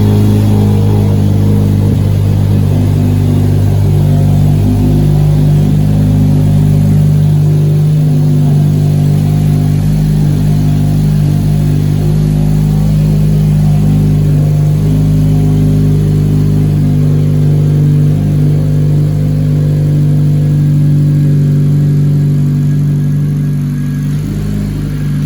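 2012 Honda Civic Si's 2.4-litre four-cylinder engine idling steadily, loud and close, shortly after being started.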